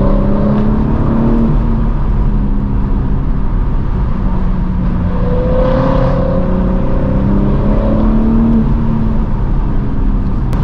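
BMW M4 G82's twin-turbo inline-six engine running under load. The revs climb, hold, climb again about halfway through, then fall back near the end.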